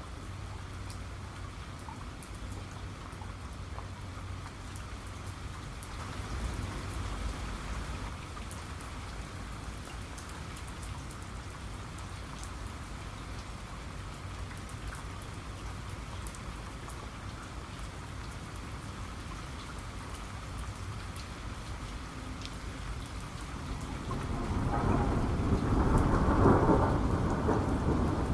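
Steady rain falling, with fine drop patter, and a thunderstorm's low rumble; a louder roll of thunder builds about three-quarters of the way through and peaks near the end.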